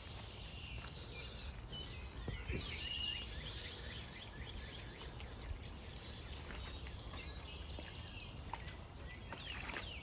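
Small birds chirping over a low steady rumble.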